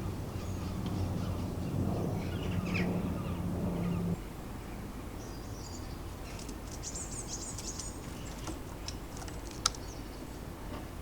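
Small garden birds chirping and calling in short, high notes, with a flurry of very high chirps about six to seven seconds in. A low steady hum underneath cuts off suddenly about four seconds in, and a single sharp click comes near the end.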